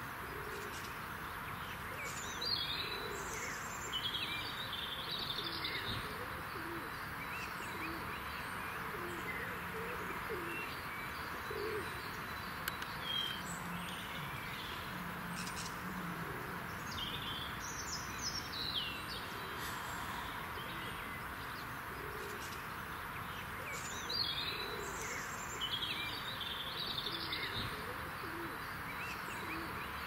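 Garden birds singing: short, high phrases of song that come back several times, with low cooing notes in the middle, over a steady background hiss.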